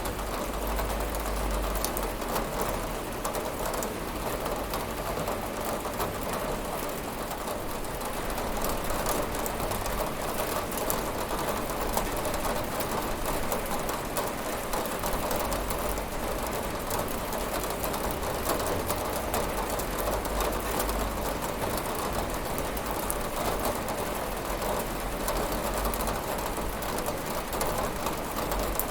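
Steady rain falling on a window: a constant hiss of rain with many small ticks of drops hitting the glass, and a low rumble underneath.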